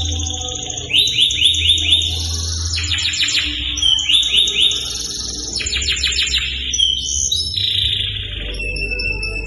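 Domestic canary singing a continuous, varied song: rapid trills of repeated notes, each phrase held for about a second before switching to a new one. A steady low hum runs underneath.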